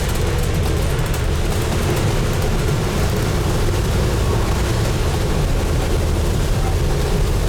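A Scania N250UD double-decker bus's five-cylinder diesel engine and road noise, heard from inside the front of the bus as it drives: a steady, loud, low rumble.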